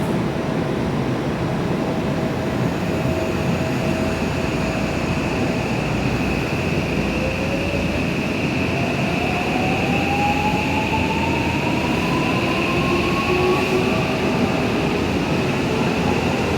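Electric commuter train on the JR Osaka Loop Line pulling through the station, with steady running noise. About seven seconds in, its traction motors give a whine that climbs in pitch as the train accelerates, over a steady high tone.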